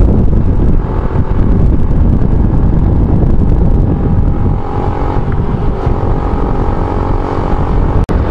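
Yamaha YBR 125G single-cylinder motorcycle engine running steadily while riding, under heavy wind rush on the microphone, with a brief dropout near the end.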